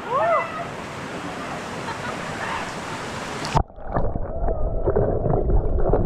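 Mountain valley stream rushing steadily, with a short pitched call at the very start. About three and a half seconds in it cuts abruptly to muffled water sloshing and splashing close to the microphone, with irregular knocks.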